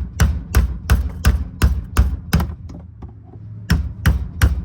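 Repeated sharp strikes, about three a second, with a pause of about a second before a few more, as the lock ring on the fuel tank's pump module is hammered round to tighten it down over the seal.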